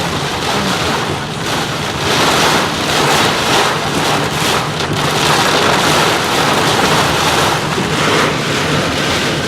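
Heavy rain beating on a moving car, its noise swelling and easing every second or so, over the steady low drone of the car.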